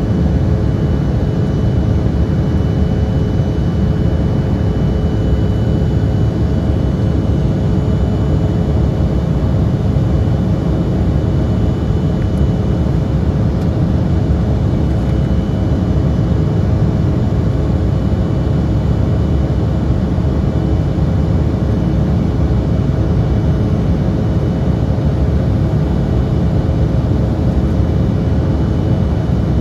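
Embraer E175 jet's twin GE CF34 turbofans running steadily in climb: a constant loud rumble with a steady hum and a faint high whine riding on it, with no change in pitch or level.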